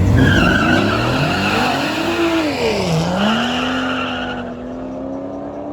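Car engine revving hard with tires squealing. The engine's pitch climbs, drops sharply about three seconds in, then holds steady, and the squealing stops shortly after.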